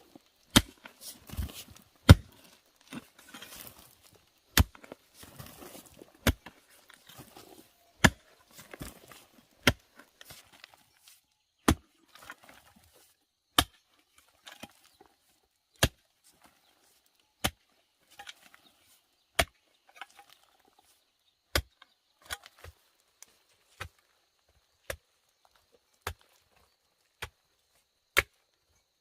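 Wood being chopped by hand: sharp single strikes, coming about every two seconds in the later part, with rustling and crackling between the blows in the first third.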